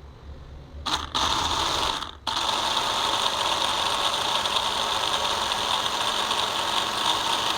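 Small electric motor spinning a toy helicopter's rotor, running with a rattling whir; it starts about a second in, cuts out briefly about a second later, then runs steadily.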